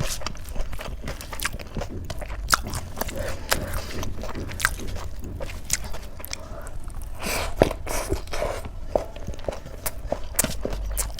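Close-miked chewing and wet mouth sounds of a person eating chickpea curry with rice, with irregular sharp clicks and occasional crunches.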